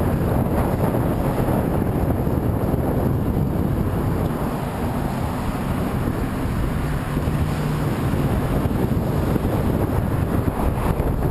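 Strong wind buffeting the microphone of a camera on a moving bicycle ridden into a headwind: a steady, loud low rumble of wind noise.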